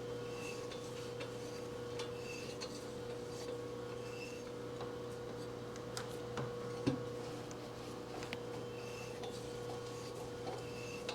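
Steady hum of a running machine motor, with faint light ticks about once a second and a single small knock about seven seconds in.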